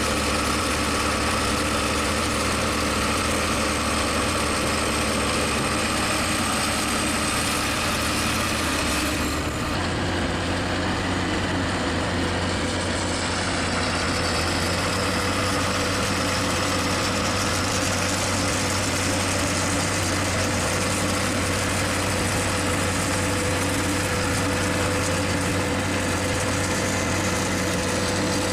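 Tractor engines running steadily under load in mud. About ten seconds in, the sound changes abruptly to a different, equally steady engine note.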